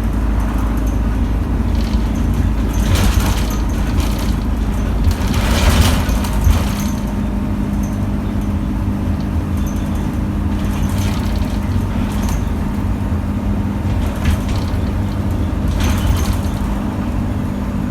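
Bus interior on the move: a steady engine and road drone with a low hum. Short rattles and knocks come through it several times, the strongest about three, six and sixteen seconds in.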